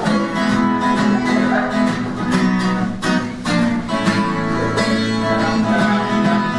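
A lively tune played live on a plucked string instrument, with a steady, rhythmic beat of plucked or strummed notes.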